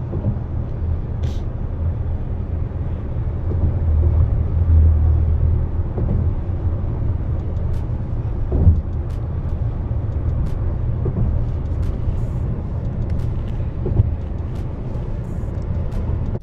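Steady road and engine rumble heard from inside a moving car's cabin, with a short thump about halfway through and another near the end.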